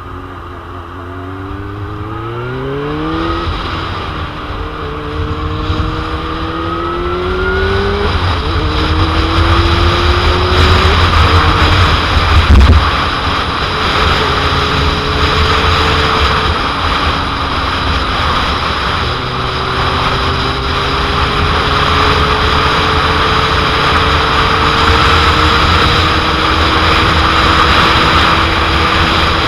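2001 Suzuki GSX-R750's inline-four engine accelerating hard, with the pitch dropping at upshifts about three and eight seconds in, then pulling on with a slowly rising note. Heavy wind noise buffets the microphone and grows louder with speed, with one loud thump of wind about halfway through.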